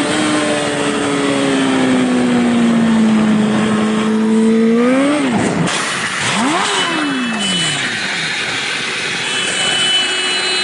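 A vehicle engine running: its pitch sinks slowly for about four seconds, climbs sharply as it revs about five seconds in, then sweeps up and down as it passes by.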